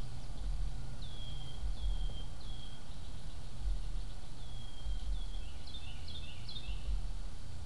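Bird calls: a few short, high, downslurred notes, then more notes bunched quickly together near the end, over a steady low rumble.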